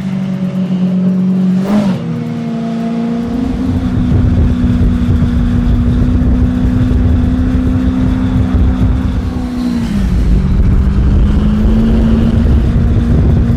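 Motorcycle engine running hard at a steady high pitch, its note dipping and climbing back about two seconds in and again about ten seconds in, as with a shift or a lift of the throttle.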